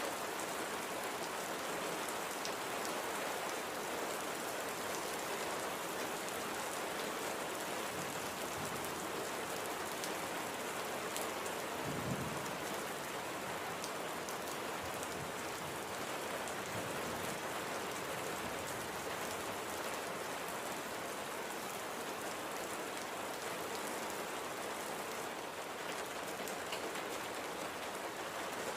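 Steady light rain falling on a surface, an even hiss with scattered drop ticks. A brief low thump comes about twelve seconds in.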